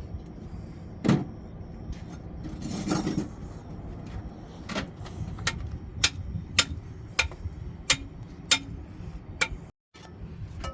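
A series of sharp knocks: a loud one about a second in, a brief scraping noise around three seconds in, then a regular run of knocks about two a second through the second half.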